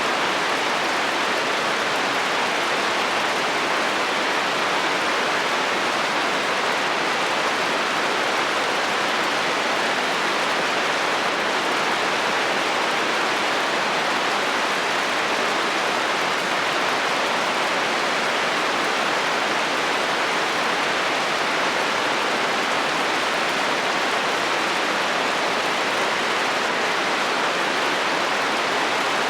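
Heavy rain falling steadily on a metal roof: a dense, even hiss.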